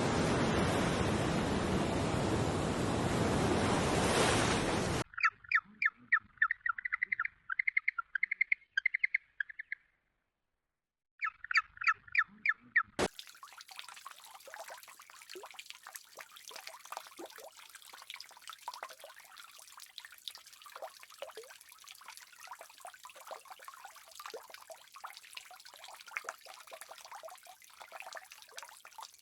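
A loud rushing noise stops suddenly about five seconds in. Quick, evenly repeated high chirps from an animal follow for several seconds, with a short break. A fainter steady crackling, trickling noise then runs on.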